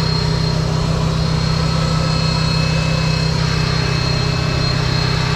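An engine idling steadily, a constant low hum with a faint high whine over it.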